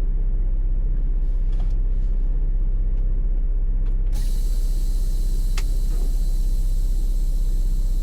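Semi-truck diesel engine idling steadily, heard from inside the cab, with a few light clicks and one short sharp sound a little past halfway.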